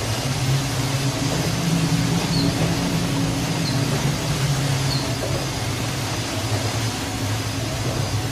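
A ship's engine running with a steady low drone under a constant rushing noise.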